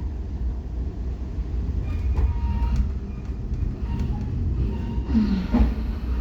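Metra passenger train rolling slowly, heard from inside the coach: a steady low rumble with a few sharp clicks and knocks from the wheels and car.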